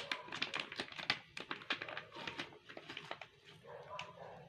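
A rapid, irregular run of sharp clicks and crackles that thins out and gets quieter toward the end.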